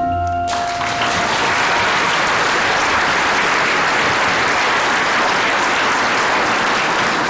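Audience applauding, starting about half a second in, steady throughout, as the last ringing note of a mallet-percussion piece dies away.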